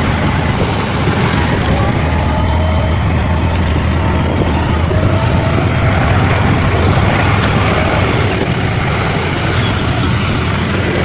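Bulldozer's diesel engine running steadily under load, a loud, continuous low drone with rough mechanical noise over it.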